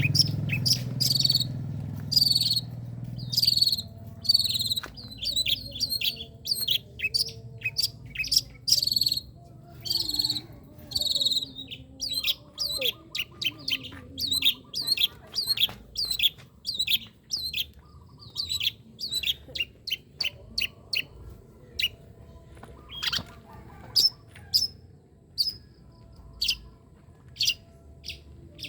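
Long-tailed shrike singing a fast string of loud, sharp, high 'tembakan' call notes, several a second, with softer warbled phrases between them.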